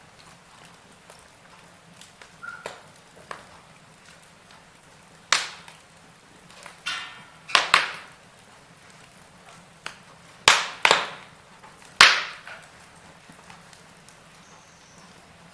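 Wood fire crackling in a fireplace: irregular sharp pops and snaps over a faint hiss, with a cluster of the loudest pops between about five and twelve seconds in.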